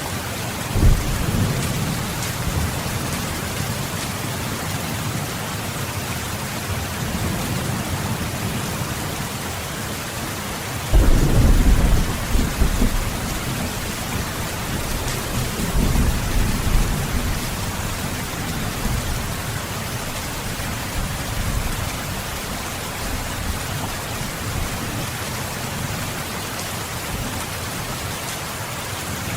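Steady heavy rain with rolling thunder: a short rumble about a second in, the loudest one about eleven seconds in lasting a couple of seconds, and a weaker one around sixteen seconds.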